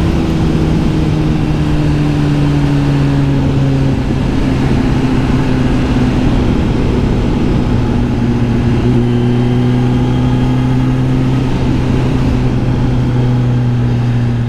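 Kawasaki Z900 SE inline-four through an SC Project S1 aftermarket exhaust, running under way. Its note sinks slowly, steps down once about four seconds in, then holds low and steady.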